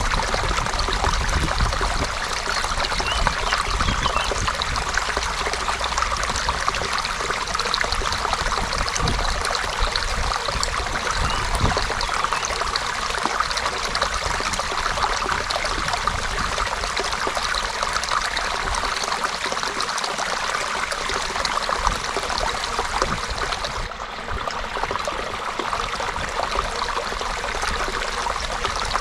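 A shallow creek running and trickling over stones, with a steady babble of small splashes.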